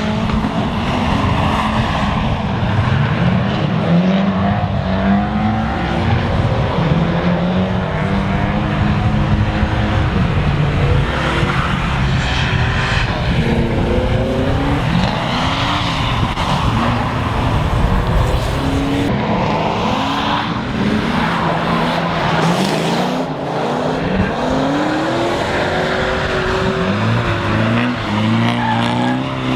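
Drift cars sliding on a wet track: their engines rev hard, climbing and dropping in pitch again and again as the throttle is worked, over a steady hiss of tire noise and skidding.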